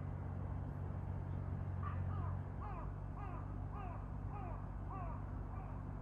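A bird calling a quick run of about seven short, falling notes, a little under two a second, starting about two seconds in, over a steady low rumble.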